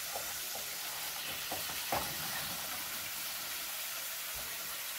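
Sliced squash sizzling steadily in butter in a frying pan on a portable single-burner stove, with a few light knocks of a utensil against the pan in the first two seconds.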